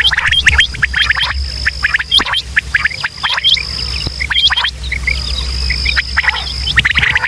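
Quail calling: a rapid run of short, sharp chirping notes, several a second, with a steady high thin tone running behind them and a low hum underneath.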